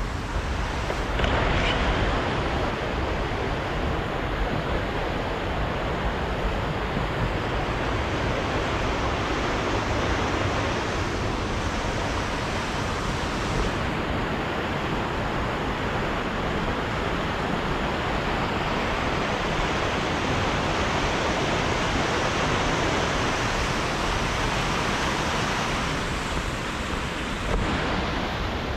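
Steady rush of the Maligne River's fast water tumbling through the canyon, an even roar of white water.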